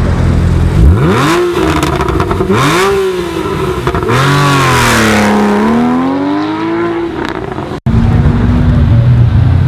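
A high-performance car engine being revved hard several times, its pitch sweeping up and falling back, with one longer rev in the middle. It cuts off suddenly near the end, and a steady low engine rumble follows.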